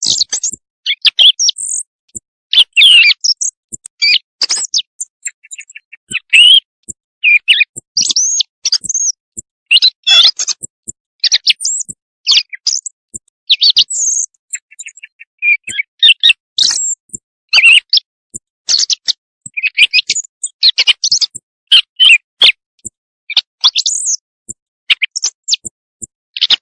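Recorded common quail calls played as a night-time hunting lure: a dense, irregular run of short, high chirps and squeaks with brief gaps between them.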